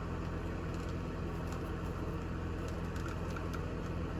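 A steady low background hum with faint, scattered small clicks of a hand tool working the engine mount screws of a nitro RC buggy.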